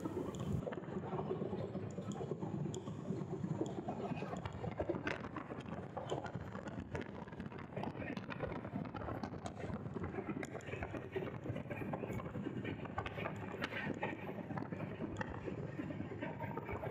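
Moving train: a steady running rumble with irregular clacks and rattles from the wheels on the rails.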